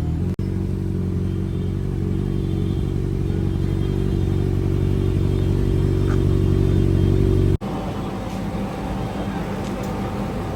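Motorcycle engine running at a steady idle through an aftermarket exhaust, a deep even note with no revving. It breaks off abruptly twice, and after about seven and a half seconds the engine note is weaker and rougher.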